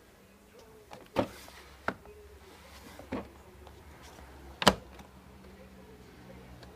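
Four sharp clunks and clicks, the loudest near the end, over a faint steady low hum.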